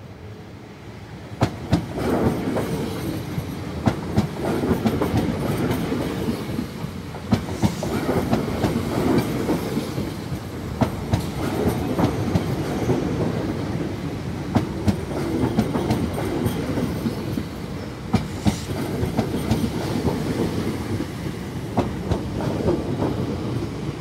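Belgian SNCB electric multiple-unit passenger train passing close by: a steady rolling rumble of wheels on the rails, rising about a second and a half in. Sharp clicks come every second or two as the wheels cross rail joints.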